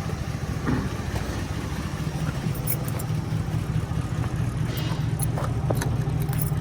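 A vehicle engine idling steadily, with a few scattered light clicks and taps over it.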